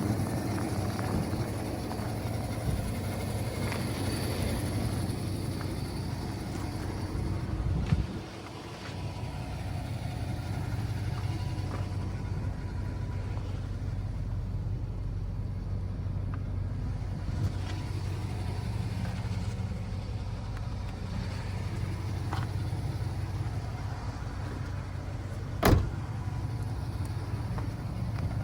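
2016 Ford F350 pickup's engine idling steadily, with a brief knock about a third of the way in and a sharp click near the end.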